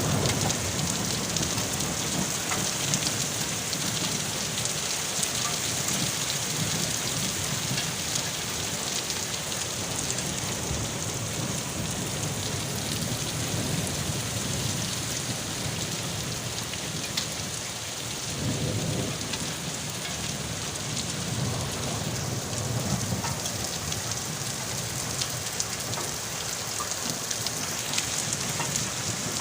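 Steady rain falling, with fine ticks of individual drops hitting a surface and a low rumble that swells now and then, about two-thirds of the way through.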